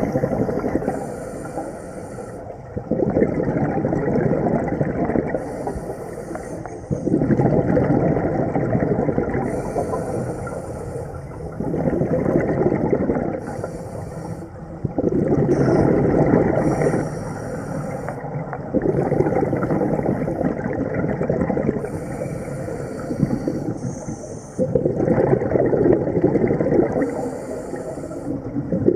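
Scuba diver breathing through a regulator underwater: a short hiss on each inhale, then a longer rush of exhaust bubbles on each exhale, roughly one breath every four seconds.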